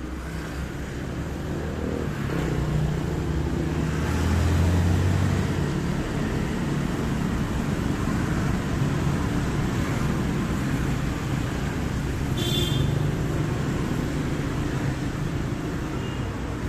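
Street traffic: passing vehicle engines make a steady low rumble that swells about four to five seconds in. A short high-pitched tone sounds about twelve seconds in.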